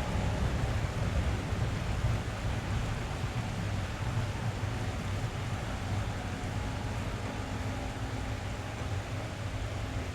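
Steady rain pattering on a car's roof and windows, heard from inside the cabin, with a continuous low rumble under it.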